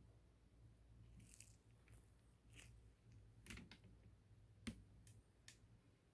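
Near silence: a faint steady low hum with a few soft, scattered clicks.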